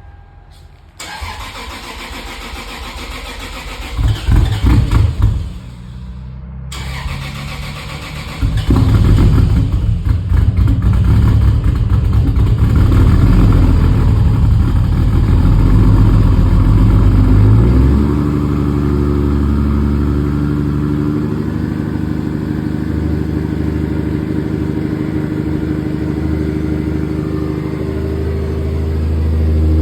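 Lexus SC300's 2JZ inline-six cold start: bursts of cranking about four seconds in, then the engine catches a little past eight seconds and runs at a raised cold-start idle. A little past halfway it drops to a lower, steady idle.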